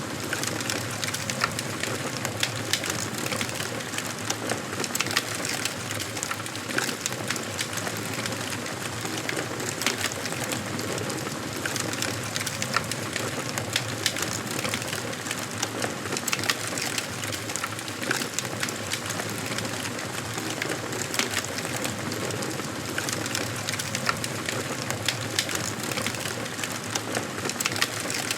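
Wood fire burning in a fireplace: a steady hiss of flames with frequent small crackles and pops from the burning wood.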